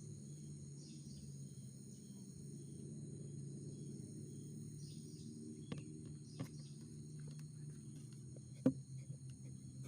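Steady high-pitched drone of forest insects, crickets or cicadas, over a low steady hum, broken by a few sharp clicks or knocks, the loudest a little before the end.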